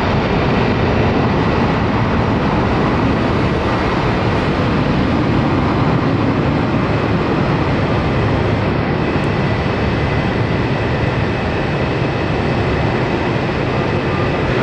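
Jet airliner engines running loud and steady, with a faint thin whine above the noise.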